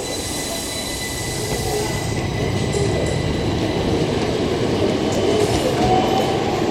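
Electric train running along the track, a dense rumble that grows slowly louder, with faint steady high-pitched tones over it.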